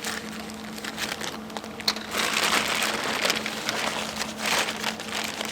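Irregular crinkling and rustling handling noise, busiest in the second half, over a steady low hum.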